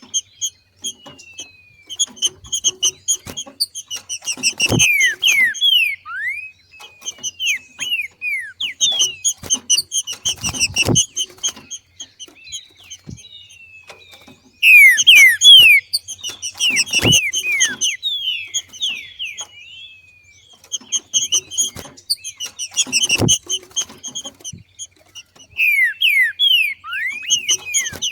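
Green-winged saltator (trinca-ferro) giving its excited 'macheado' chatter: repeated bouts of rapid, high chirps mixed with quick down-slurred whistles, each bout a few seconds long with short pauses between. Short soft knocks come between the calls.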